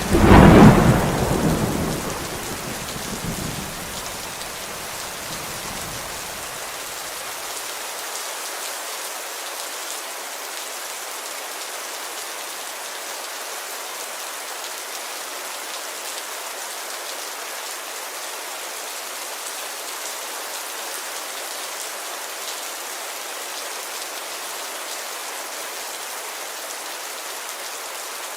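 Steady heavy rain on a window, opening with a loud thunderclap that rumbles away over the next several seconds.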